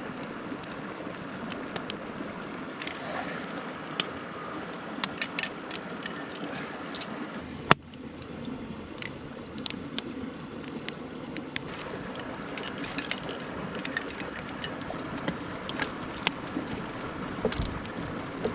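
A mountain stream rushing steadily, with scattered sharp crackles and pops from a wood campfire and one louder sharp crack about eight seconds in.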